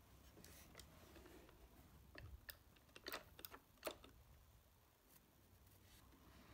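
Faint handling sounds: light rustling and a few short, sharp clicks, bunched together about two to four seconds in, over a low room hum.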